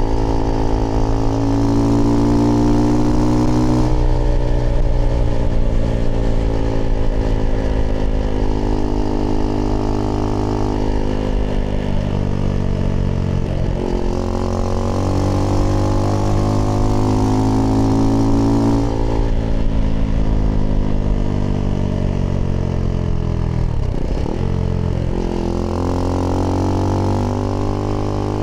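Husqvarna Svartpilen 401's single-cylinder engine through an aftermarket IxRace Mk.2 exhaust with a modified dB killer, under way: the engine note climbs and falls repeatedly with the throttle, dipping sharply twice in the second half.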